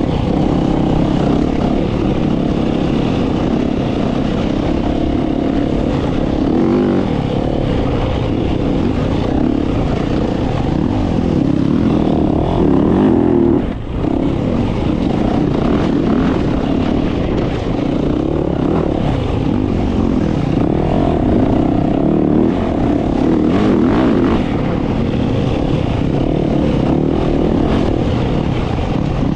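Dirt bike engine running steadily under throttle while riding, with a brief drop in the engine sound about halfway through.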